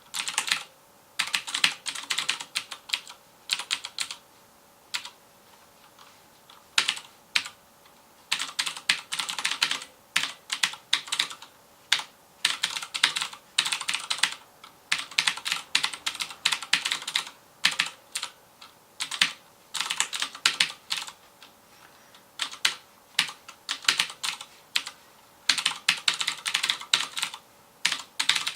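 Fast typing on a FILCO Majestouch Convertible 2 mechanical keyboard with clicky Cherry MX Blue switches: quick runs of keystrokes broken by short pauses, the longest about two seconds, a few seconds in.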